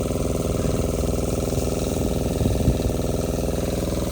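A small engine running steadily at an even speed, a continuous drone.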